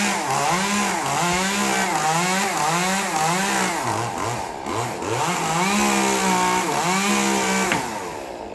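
Chainsaw cutting, its engine pitch rising and falling about twice a second and dropping lower for a moment around the middle, then fading away near the end.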